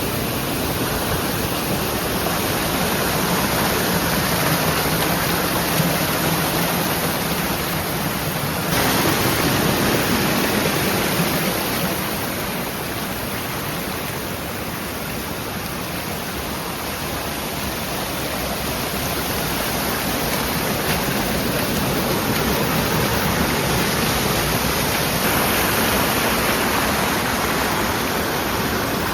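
Mountain stream water rushing steadily over rocks and small cascades. The sound changes suddenly about nine seconds in, eases off for a while, then grows again near the end.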